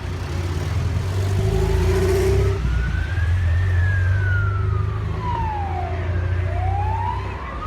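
Emergency vehicle siren in a slow wail, rising in pitch, falling, and rising again, over a steady low rumble.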